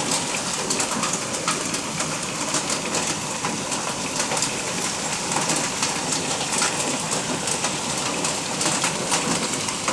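Heavy rain mixed with hail: a steady downpour hiss laced with dense, sharp ticks of hailstones striking.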